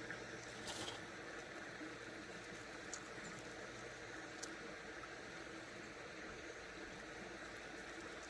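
Steady rush of a running creek, with a few faint light clicks.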